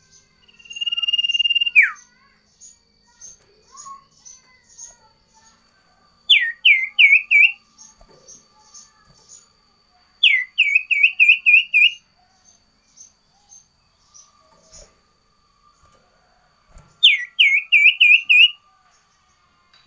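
Sirtu songbird singing: a long held clear whistle that drops steeply in pitch, then three rapid runs of repeated down-slurred whistled notes a few seconds apart. Faint, evenly spaced high chips run underneath.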